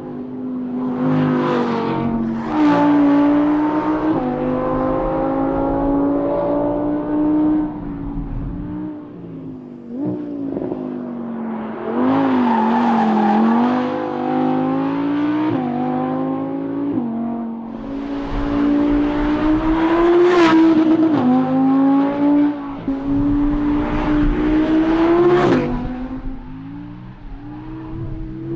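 Audi R8's V10 engine being driven hard on a track: the exhaust note climbs through the revs and drops sharply at each upshift, several times over, with sharp cracks at some of the shifts.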